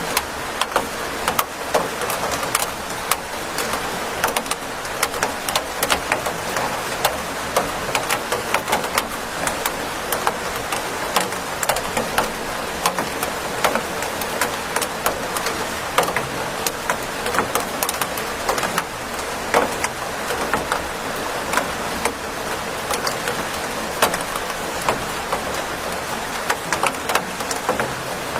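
Steady rain: an even hiss with many close drops tapping sharply and irregularly on a surface.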